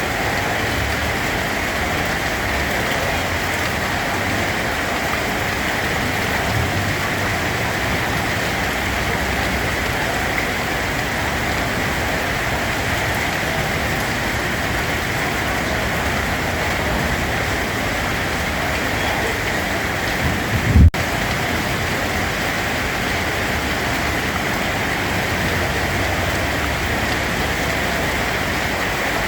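Steady rain falling on a surface, an even hiss. About two-thirds of the way through, a short low rumble swells up and cuts off abruptly in a split-second dropout.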